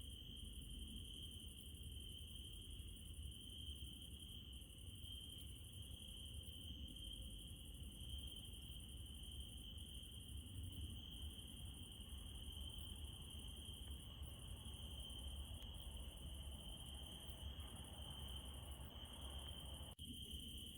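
Crickets chirping steadily at night, a continuous high trill with a second, higher insect buzz above it and a low rumble underneath.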